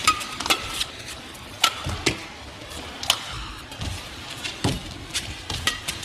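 Badminton rally: rackets striking the shuttlecock in sharp, irregularly spaced cracks, about one every half second to a second, with short squeaks from shoes on the court between them.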